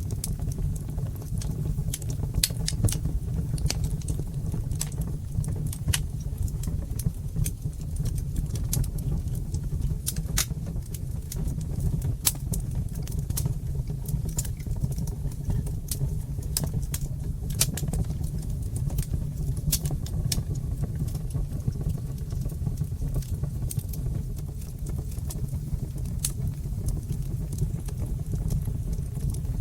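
Wood fire crackling in a fireplace: sharp, irregular pops and snaps, several a second at times, over a steady low rumble of the burning fire.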